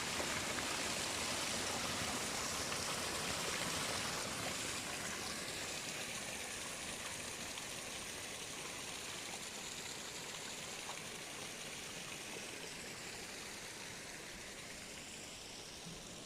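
Spring water flowing and bubbling up at its source, a steady rush of water that slowly grows fainter.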